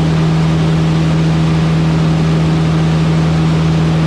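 Van's RV-8 light aircraft's piston engine and propeller droning steadily in cruise flight, a constant low hum over a broad rushing noise.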